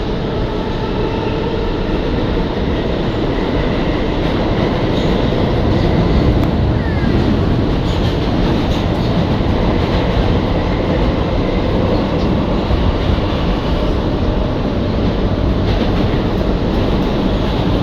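R211A subway car running between stations, heard from inside the car: a steady, loud rumble of wheels on rail.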